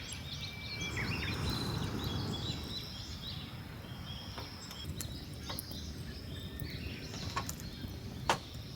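Outdoor ambience with birds chirping, mostly in the first couple of seconds, over a steady low rumble and a faint insect-like high hum. A few sharp snaps or clicks come later, the loudest near the end.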